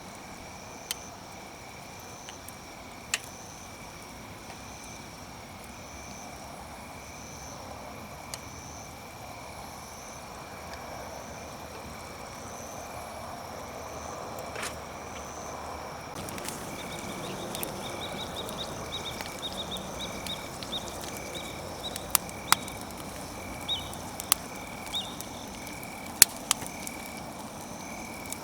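Wood campfire crackling, with sharp pops that come more often in the second half, over a hiss that grows louder partway through. A steady pulsing chirp runs in the background.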